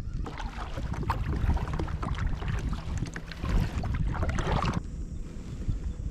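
Water splashing and trickling around a kayak, a dense irregular patter that stops suddenly near the end, over a steady low rumble of wind on the microphone.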